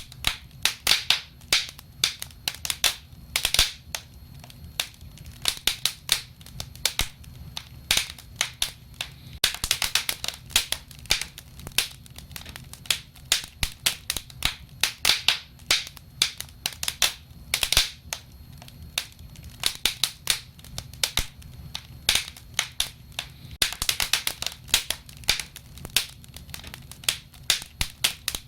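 Burning wood fire crackling, with many sharp pops at irregular intervals over a low steady rumble of flames; the popping comes thicker in short clusters.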